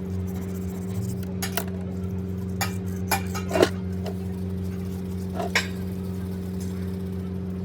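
Metal parts and tools clinking against each other, about half a dozen sharp irregular clinks, the loudest about three and a half seconds in, over a steady low mechanical hum.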